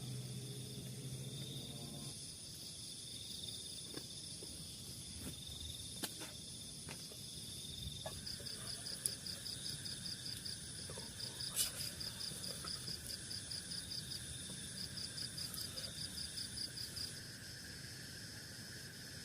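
Night insects calling: steady high trills throughout, joined about 8 seconds in by a rapid, pulsing chirp that stops shortly before the end. A few faint sharp clicks occur.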